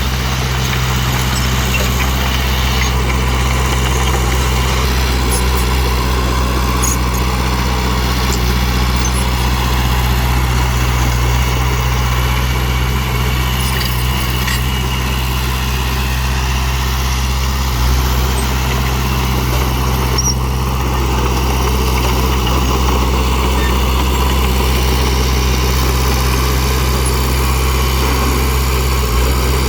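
Heavy dump truck's diesel engine running steadily, a low, even engine note that holds without revving up or down.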